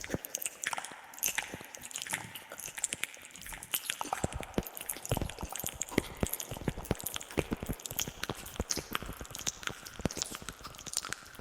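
ASMR mouth sounds close to the microphone: a quick, irregular run of wet clicks, smacks and pops, with echo added.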